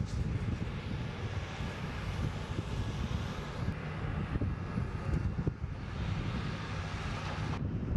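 Jet aircraft engines running: a steady low rumble with a rushing hiss above it, easing slightly near the end.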